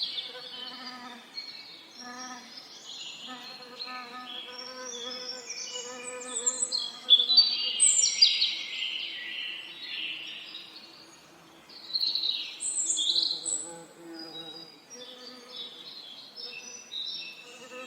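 Several birds singing busy, chirping phrases, with the loudest bursts about seven seconds in and again near twelve seconds, over the intermittent drone of bees buzzing.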